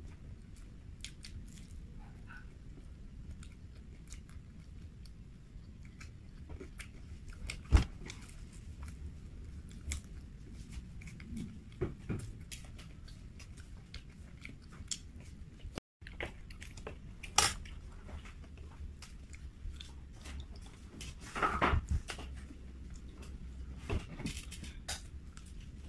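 A person chewing crispy glazed Korean fried chicken, with scattered crunches and mouth clicks and a few louder sharp cracks.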